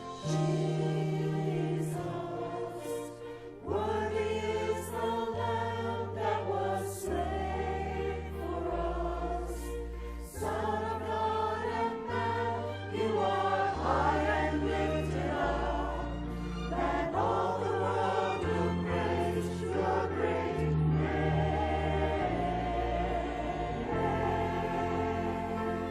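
Choir singing a sacred piece over an accompaniment of held bass notes that change every second or two.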